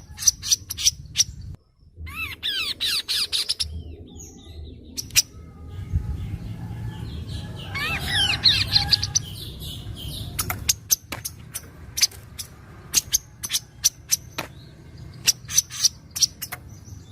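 Kaso-kaso bird singing: a string of sharp chip notes with two bursts of fast, sweeping trilled whistles, about two seconds in and again about eight seconds in, over a low background rumble.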